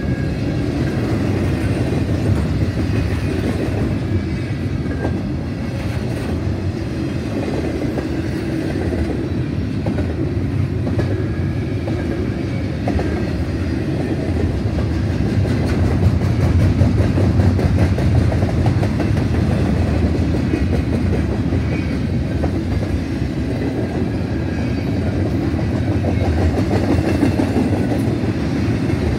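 Double-stack container well cars of an intermodal freight train rolling past, a steady loud rumble of steel wheels on the rails with clickety-clack over the rail joints.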